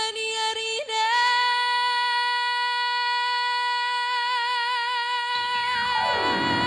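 Female singer holding one long high note with vibrato for about five seconds after a few short notes, in a Batak folk song. Backing music swells in underneath near the end.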